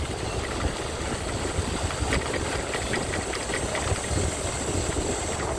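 Honda CB Unicorn motorcycle's single-cylinder engine running steadily, a low engine note under constant noise.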